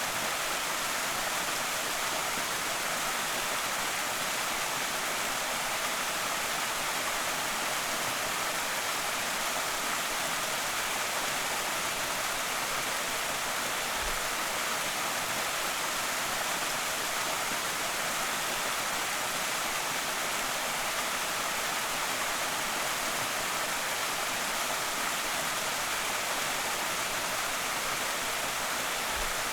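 Small creek waterfall pouring steadily, a constant even rush of falling water. A faint low thump about halfway through.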